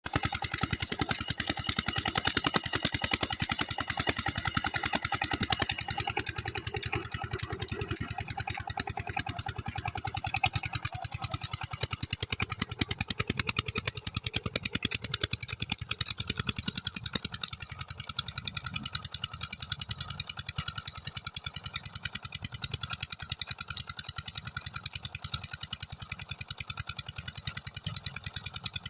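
Diesel engine running at full power with a steady, fast, even beat.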